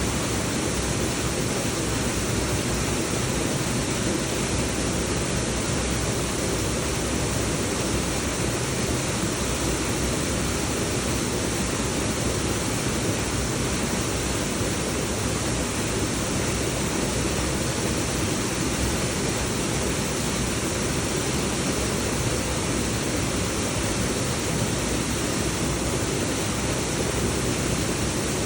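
Waterfall: water falling in a constant, unbroken rush.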